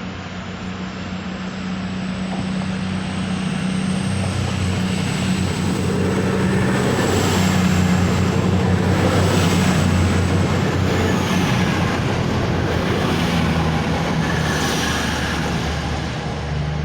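Class 222 Meridian diesel-electric multiple unit accelerating away from the platform, its underfloor diesel engines running with a steady low drone and a high whine that falls away about eleven seconds in. The sound builds to its loudest about eight to ten seconds in, then slowly eases as the train draws off.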